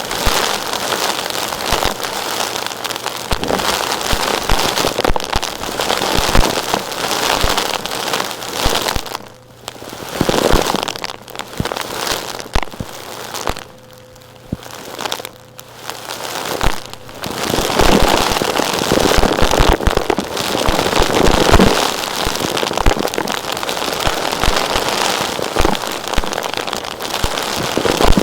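Dense crackling and crunching of rock pieces being worked and sifted with tools, many small gritty clicks at once, easing off briefly about nine seconds in and again around fourteen seconds in.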